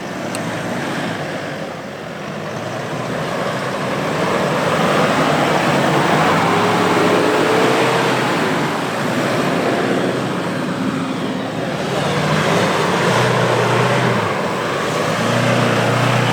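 Diesel 4x4 SUV engine working under load on a soft off-road trail, with a broad rushing noise over it. It grows louder over the first few seconds and then holds.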